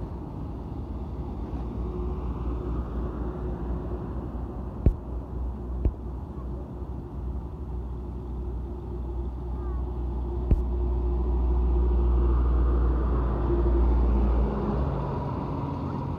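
Truck engine running with a steady low rumble that swells louder past the middle and then eases off, with three short sharp clicks along the way.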